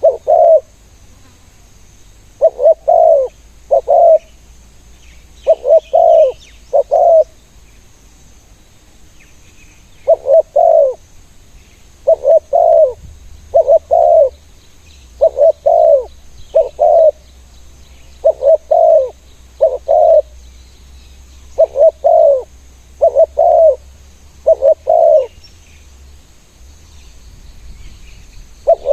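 Spotted doves cooing: low coos in groups of two or three, repeated every couple of seconds with short pauses between.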